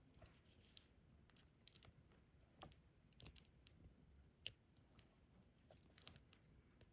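Faint, irregular light clicks and taps, a few each second: a diamond-painting pen picking up resin drills and pressing them onto the canvas.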